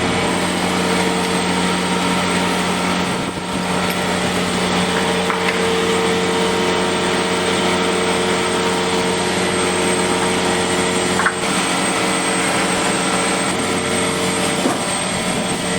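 Vacuum truck's pump and the truck engine driving it, running steadily under vacuum as one loud, even drone with a constant hum and whine.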